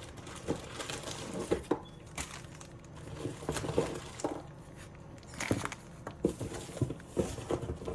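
Small nail products and plastic packaging being handled and set down on a table, with scattered light taps, clicks and crinkling as items are taken out of a box.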